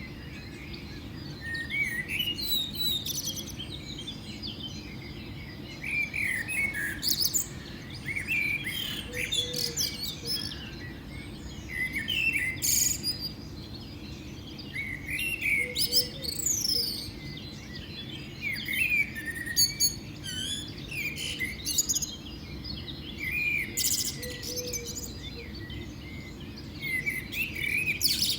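Several birds chirping and calling, with short notes that quickly rise and fall, coming in clusters every second or two over a steady low background hum.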